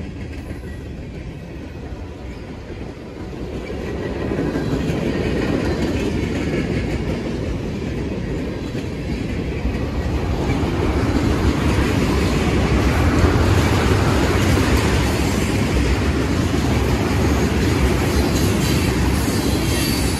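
Freight train of boxcars, covered hoppers and tank cars rolling past, a steady rumble of steel wheels on the rails that grows louder about four seconds in and again about ten seconds in.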